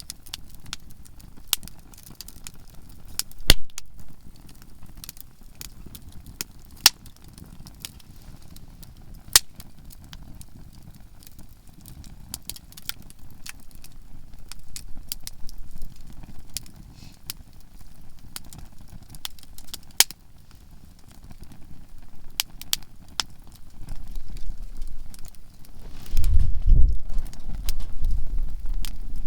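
Conifer firewood burning in a campfire, crackling with scattered sharp pops and a loud snap about three and a half seconds in. A louder low rumble rises near the end.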